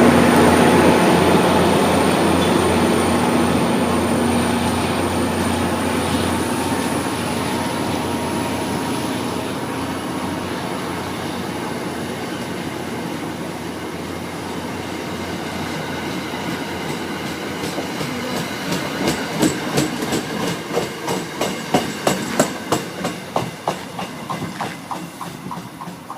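Train rolling through on the rails: a steady rumble that slowly fades, then wheels clicking rhythmically over rail joints, the clicks coming thicker and louder in the second half.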